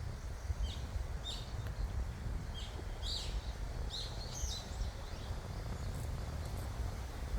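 A small bird chirping: a run of short, high chirps in quick succession over the first few seconds, then falling quiet, over a steady low rumble of background noise.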